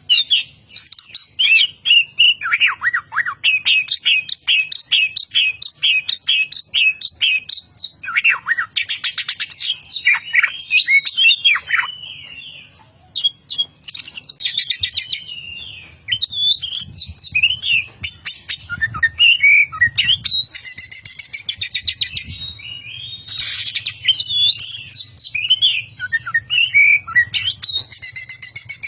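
Oriental magpie-robin (kacer) singing a long, loud, varied song: sweeping whistled notes mixed with fast, high chattering runs in the style of a lovebird's chatter. There are two brief pauses.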